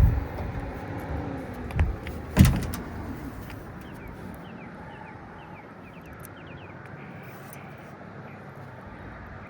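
Three sharp metal knocks in the first few seconds, the last the loudest, as the new condenser fan motor and its parts are handled and set into the unit, over a steady background noise.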